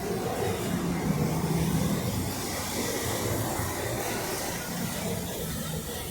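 Street traffic: a vehicle engine running close by, loudest about a second in, over a steady hiss.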